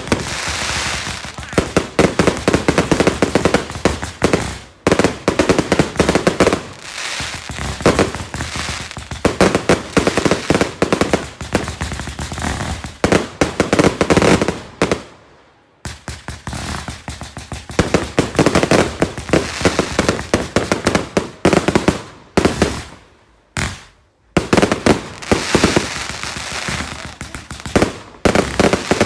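Fireworks going off in long rapid volleys of sharp bangs and crackles, with a few short pauses between volleys, the longest about halfway through.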